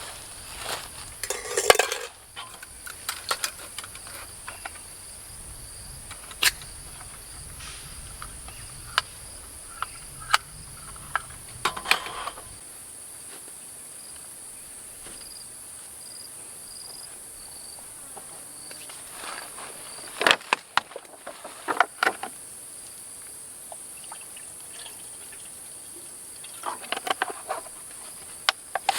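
Steady high-pitched chorus of jungle insects such as crickets, running throughout. Over it come scattered sharp clicks and light clattering knocks in a few short clusters, like camp gear and utensils being handled.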